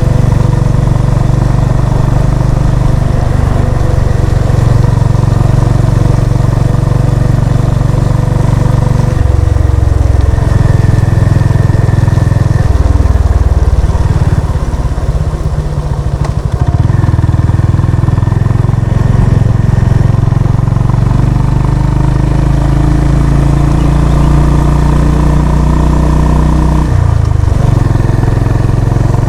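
Honda CB350 RS motorcycle's single-cylinder engine running under way, its note changing pitch a few times as the speed changes, with a brief drop in loudness around the middle.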